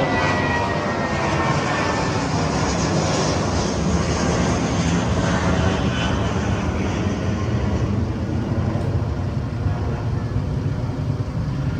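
Airplane jet engines, a loud steady roar with a whine that falls in pitch over the first couple of seconds, as of a plane passing close by.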